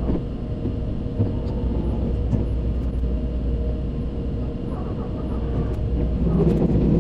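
Running noise of a Tobu 100 series Spacia electric train heard from inside the car: a steady low rumble with a faint held tone and scattered short clicks from the wheels on the track.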